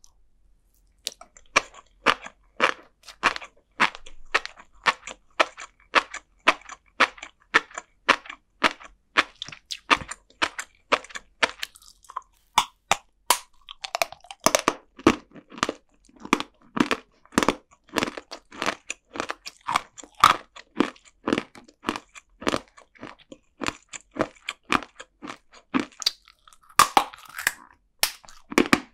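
Close-miked mouth chewing of flying fish roe and sea grapes: a dense run of sharp little pops and crunches, a few a second, as the tiny eggs and seaweed beads burst between the teeth.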